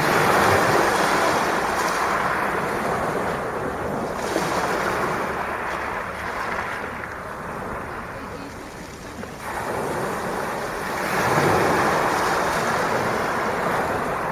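Sea waves breaking and washing up the beach, in three swells that rise and fall every few seconds, the loudest about eleven seconds in.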